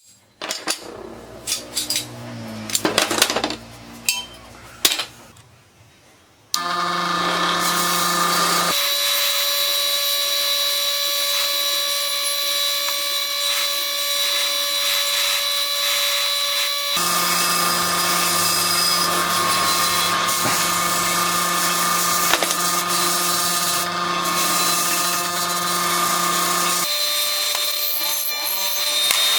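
A few sharp knocks and clicks of metal parts being handled, then, about six seconds in, an electric power tool starts and runs steadily with a high whine, its tone shifting a few times as it works.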